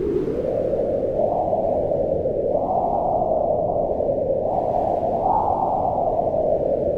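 Wind blowing steadily, a low rushing noise that rises and falls in pitch as the gusts swell and ease.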